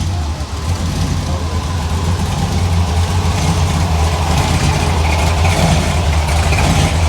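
A car or truck engine running close by with a steady low hum, growing a little louder.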